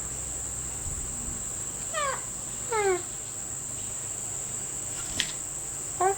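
Insects droning steadily at a high pitch, with two short falling calls about two seconds in, a sharp click near the end and another short falling call as it closes.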